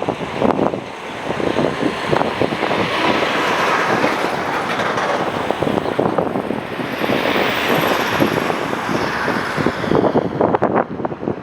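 Jet noise from a Boeing 747-400 freighter's four GE CF6 turbofans as the airliner passes close by: a loud, steady rush whose pitch sweeps up and then back down over several seconds. Wind buffets the microphone near the start and the end.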